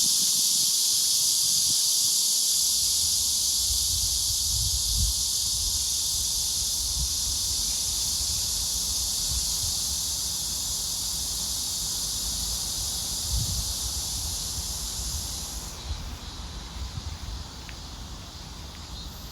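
A chorus of cicadas buzzing in one dense, steady hiss, with a low rumble underneath. The highest part of the chorus cuts out abruptly about three-quarters of the way through, and the whole sound slowly grows quieter toward the end.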